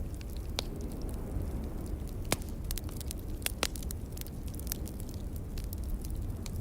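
Wood fire crackling: scattered sharp pops and snaps, the loudest about two and a half seconds in and again a second later, over a steady low rumble.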